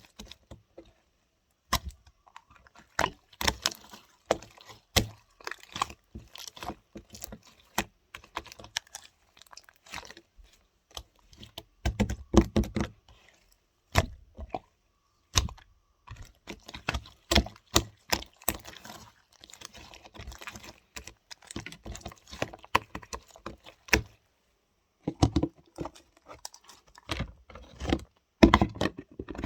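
Hands squeezing and poking slime: irregular sticky clicks, crackles and pops, with a few short pauses.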